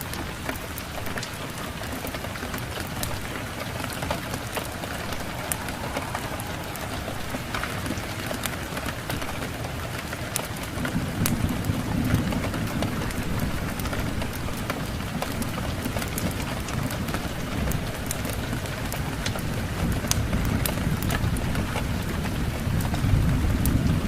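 Steady rain mixed with the sharp crackles and pops of a wood fire. A low rumble swells in about halfway through and builds again near the end.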